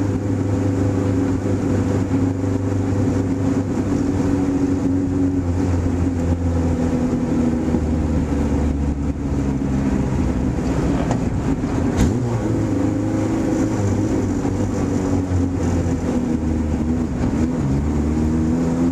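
A Ford Pinto race car's engine heard from inside the cabin, running steadily at low speed with slight easings of the throttle. One sharp click about twelve seconds in.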